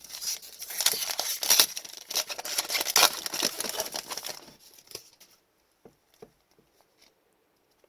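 Foil wrapper of an Upper Deck hockey card pack being torn open and crinkled, a dense crackling that stops about four and a half seconds in; after that only a few faint clicks of cards being handled.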